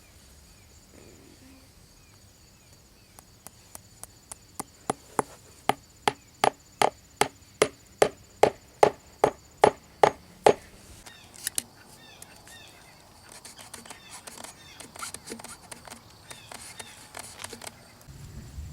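Hammer driving a nail into wood: a steady run of about twenty blows, two to three a second, growing louder, then stopping about ten seconds in. Softer scraping and rustling follows.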